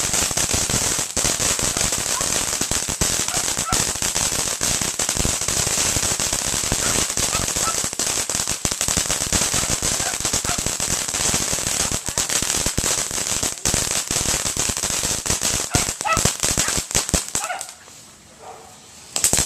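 Crickets firecracker firework going off in a long, rapid, unbroken crackle of loud pops, which breaks off about 17 seconds in. A dog barks in the short lull, and the popping starts again right at the end.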